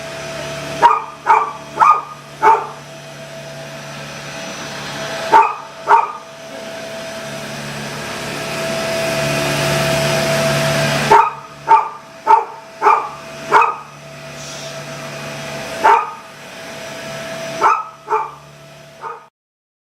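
A collie barking in quick volleys of two to five barks over the steady hum of a running vacuum cleaner. The vacuum's motor grows louder for a few seconds midway, then drops back, and everything cuts off abruptly just before the end.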